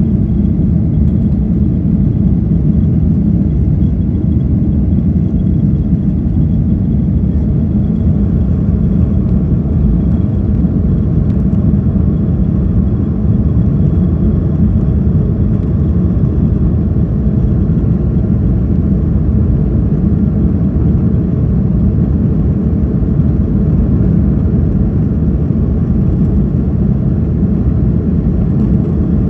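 Airliner cabin noise at take-off: jet engines and rushing air as a loud, steady low rumble.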